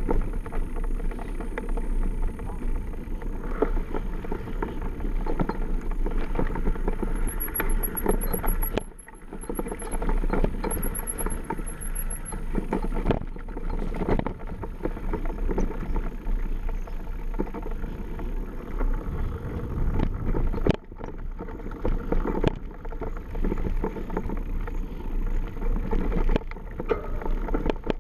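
Mountain bike riding down a dirt trail, heard through a mounted action camera: a constant rumble of tyres and a rattling frame, with many small knocks and clatters, easing briefly about 9 seconds in and again about 21 seconds in.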